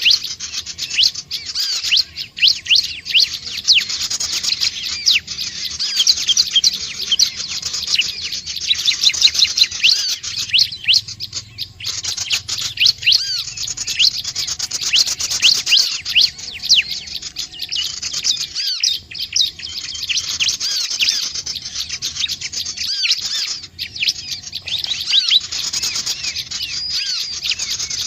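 Prinias (ciblek/prinjak) calling: a dense, continuous run of rapid, high chirps with overlapping notes and only a few brief gaps.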